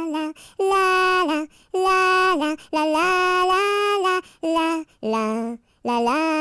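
A single high voice singing a nursery-rhyme melody with no accompaniment: held notes separated by short pauses, about six phrases.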